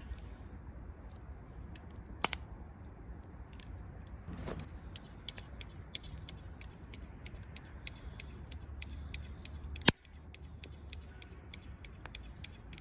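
Wood campfire crackling: irregular sharp pops and clicks over a steady low rumble, with two louder snaps about two seconds in and near ten seconds.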